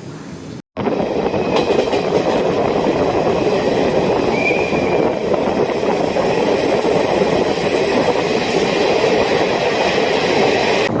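Hyderabad Express passenger train running steadily along the track, its wheels and carriages making a loud, constant rumble. The sound drops out to silence for a moment just under a second in, then resumes.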